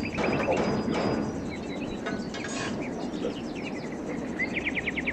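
Small birds chirping and trilling over a steady background hiss, with a run of quick repeated notes at the start and a fast trill near the end.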